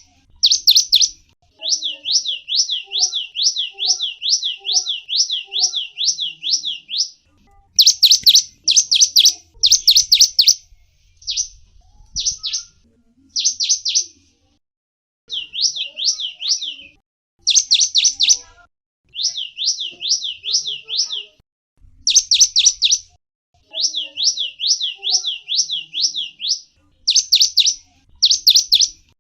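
Small songbird calling in runs of rapid, high-pitched chirps that sweep downward, several a second, in bursts of a few seconds separated by short pauses.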